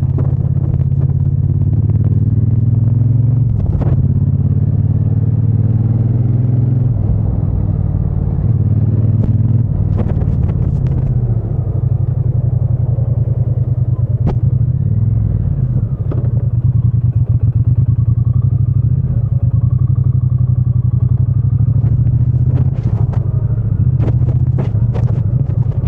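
Triumph Bonneville T120's 1200 cc parallel-twin engine and exhaust running under way, the engine note rising and falling with the throttle and gear changes, with a few short sharp clicks now and then.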